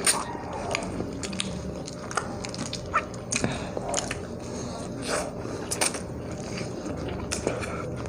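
Eating sounds: chewing with many short wet smacks and clicks at irregular intervals.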